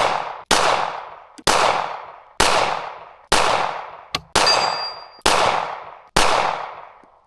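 Beretta 9mm pistol fired in steady slow succession, about eight shots roughly one a second, each with a long echo trailing off. A short metallic ping rings out about halfway through the string.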